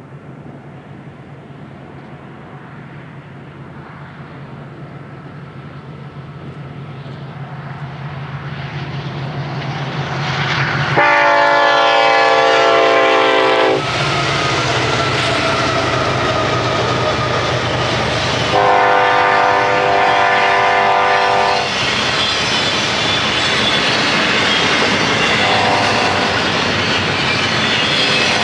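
Approaching freight train: diesel locomotive engines grow louder, then the locomotive horn sounds two long chords about 11 and 19 seconds in and a short one near 26 seconds. After that the train's cars roll past with a steady clatter of wheels on rail.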